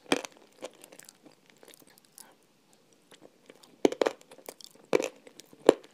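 Close-miked eating sounds: crunchy bites and chewing in short, sharp crackles. They are sparse at first, with louder clusters about four and five seconds in.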